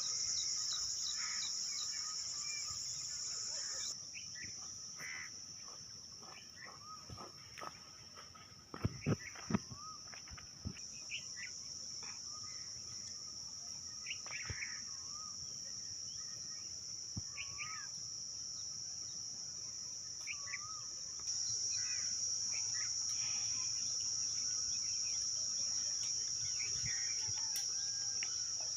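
Forest ambience: a steady high-pitched drone of insects such as crickets, with scattered bird chirps and whistles over it. A few sharp clicks come about nine seconds in.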